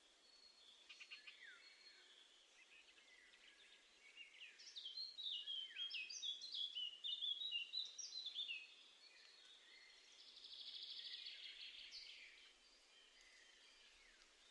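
Small garden songbirds calling and singing: a few scattered high chirps, then about four seconds of quick, varied notes, then a short buzzy trill.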